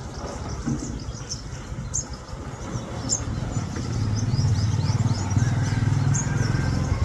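Small birds chirping in quick, repeated high notes, with a motor vehicle's engine running and growing louder from about halfway, becoming the loudest sound.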